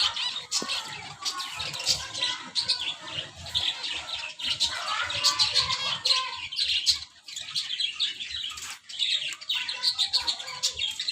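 Many small birds chirping at once, a dense, continuous twittering of overlapping high calls with brief lulls.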